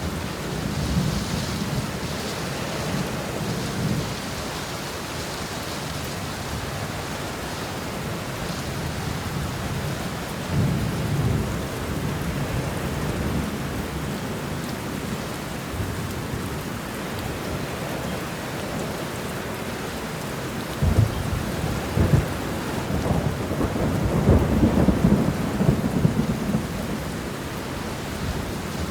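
Steady heavy rain with thunder rolling over it several times. There is a rumble about a second in and another about ten seconds in, then a sharper clap about 21 seconds in, followed by a longer, louder rumble.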